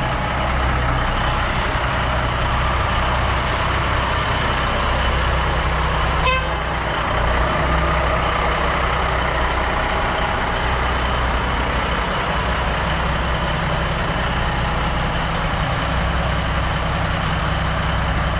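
Diesel semi truck engine running steadily, with a short hiss and a sharp knock about six seconds in.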